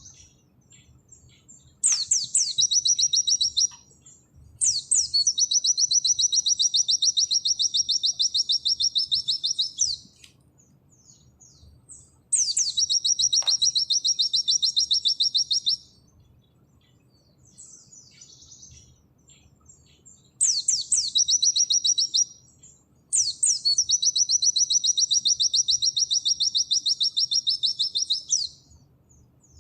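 White-eye (pleci) singing its rapid 'nembak' song: five long, loud, machine-gun-fast trills of repeated high notes, each opening with a quick downward sweep, with short pauses and faint chirps between them. The trills last from about two to five seconds each.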